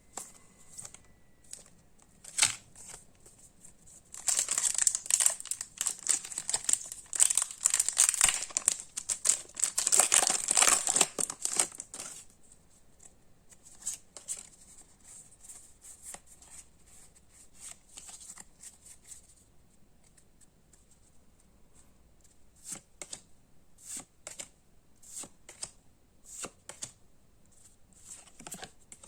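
A Pokémon booster pack's foil wrapper being torn open and crinkled for several seconds, followed by scattered light clicks and ticks as the cards are handled.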